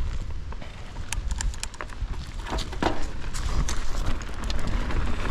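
2023 Intense Primer S mountain bike riding down a dirt trail: a low rumble of tyres and wind on the camera microphone, with scattered clicks and rattles from the bike.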